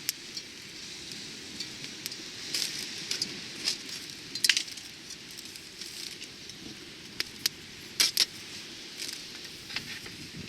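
Scattered sharp clicks and light clinks, a second or more apart, over a steady faint hiss; the strongest come about halfway through and again a few seconds later.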